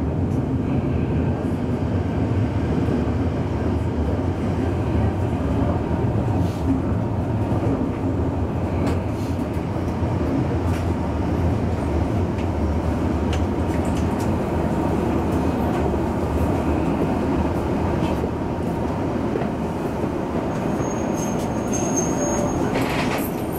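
Electric commuter train running slowly into an underground terminus platform, heard from inside the driver's cab: a steady low rumble of wheels and running gear with a few faint clicks. Near the end a short, faint high squeal as it brakes toward the buffer stop.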